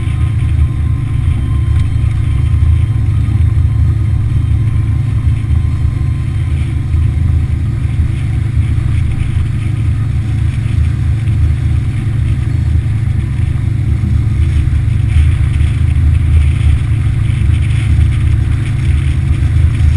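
A boat's Yamaha F60 four-stroke outboard motor running steadily underway: a heavy, even low drone that holds its pitch throughout.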